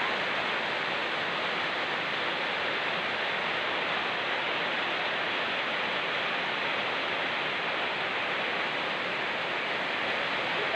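Steady rushing of a swift mountain river together with rain falling in forest, an even, unbroken water noise.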